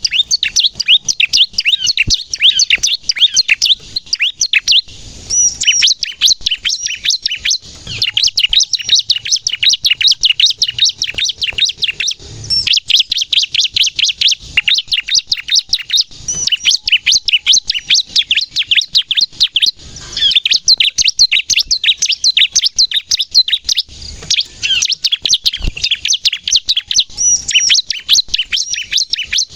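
Bar-winged prinia (ciblek) singing in its rapid-fire 'nembak' style: long strings of quick, sharp, high chirps, broken every few seconds by short pauses.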